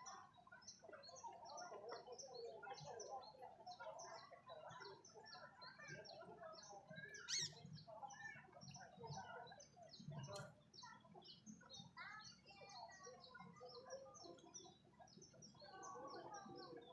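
Small birds chirping quietly and continuously, with one louder, sharply rising call about seven seconds in, over a faint low murmur.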